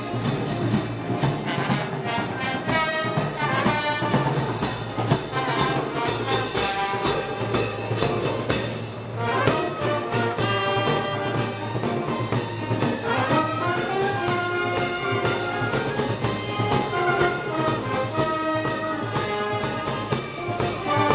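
Brass band playing Moros y Cristianos festival music: trumpets and trombones carry the melody over a steady drum and cymbal beat.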